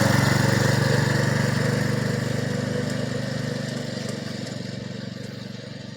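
Mini bike's small engine running at a steady pitch, growing steadily fainter as it moves away.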